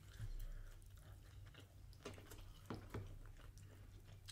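Faint chewing of fries close to the microphone, with a few soft clicks over a steady low hum.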